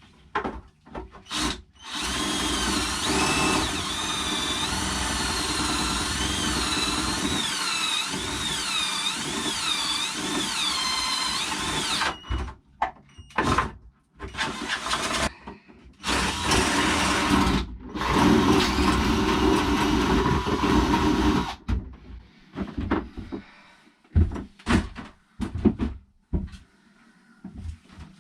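Power drill boring out a shower tap receptacle to a 39 mm hole. It runs in three stretches, a long one of about ten seconds and then two shorter ones, with its whine wavering in pitch as it cuts. A few light knocks follow near the end.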